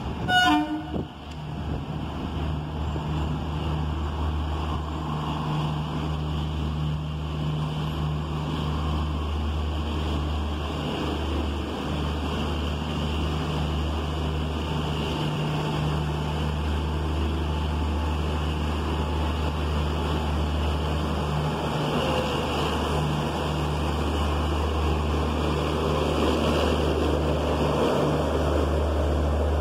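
Steady low rumble of a train running, with wind buffeting the microphone, growing slowly louder. A short falling sweep of tones sounds about half a second in.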